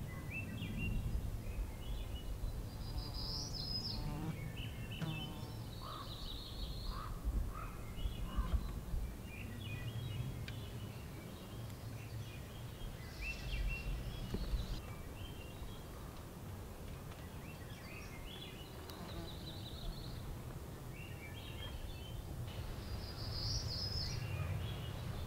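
Wild birds singing in the forest, many short chirps and trills at scattered moments, over a steady low rumble.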